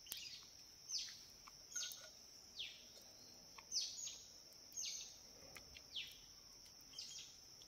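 A bird calling over and over, each call a quick high note sliding downward, about once a second, over a steady high-pitched drone.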